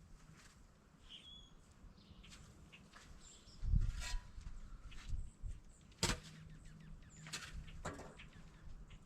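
Footsteps crunching through deep, ice-crusted snow, with a few sharp crunches and scattered short bird chirps.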